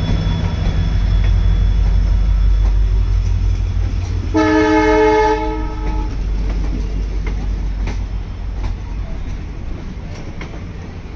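Coaches of a departing passenger train rolling past with a steady low rumble and a few wheel clicks. About four seconds in, a train horn sounds one loud, multi-tone blast lasting about a second.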